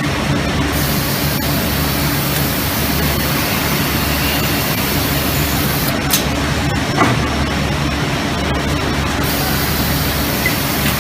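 Steady factory-floor machinery noise with a constant low hum under an even hiss. There is a sharp click or knock about six seconds in and a smaller knock about a second later.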